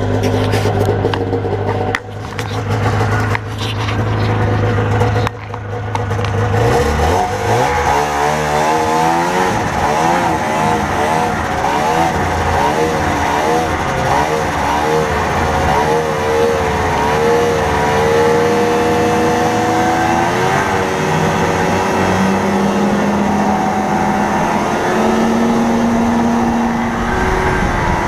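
1980 Ski-Doo Blizzard 7500 snowmobile's two-stroke engine idling steadily, then revving up about six seconds in. It keeps running at varying speed, its pitch rising and falling as the sled gets under way.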